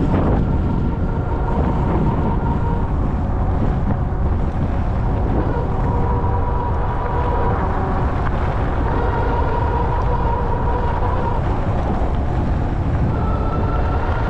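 Ariel Rider Grizzly electric bike under way: a steady low rumble of wind and road noise, with the electric hub motor's whine at a couple of steady pitches that fade in and out.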